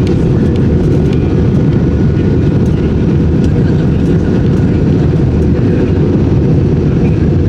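Airbus A320 cabin noise in flight: a steady, loud, low rumble of engines and airflow, with no change in level.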